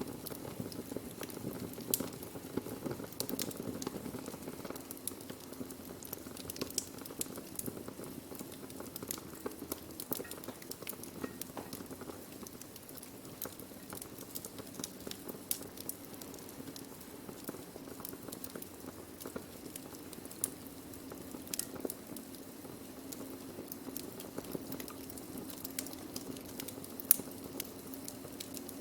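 Wood fire burning: a steady low rumble of flames with frequent small crackles and pops from the burning wood, and one louder pop near the end.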